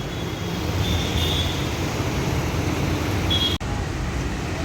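Steady rumble of road traffic at a busy city junction, with a few short high-pitched squeaks. The sound drops out abruptly for an instant about three and a half seconds in.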